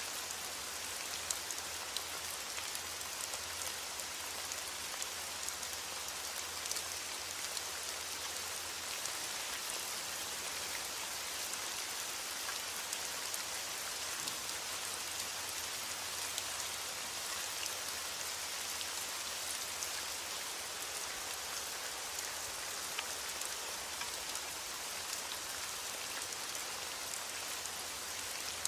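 Steady heavy rain pattering on a window pane, an even hiss with small scattered ticks of drops.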